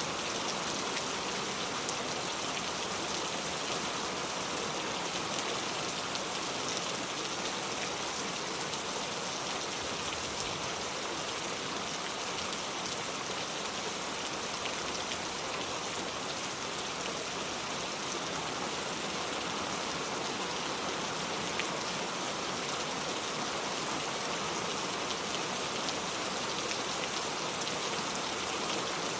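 Steady rain falling, an even hiss with small faint drop ticks scattered through it.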